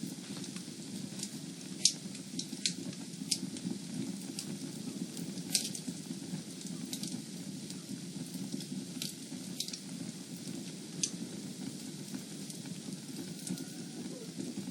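Fire burning in a fireplace: a steady low rushing hiss with frequent sharp crackles and pops, a few louder snaps standing out.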